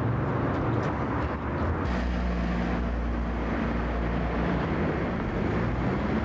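Outdoor street noise, with a car engine's low steady hum coming in about two seconds in and running evenly.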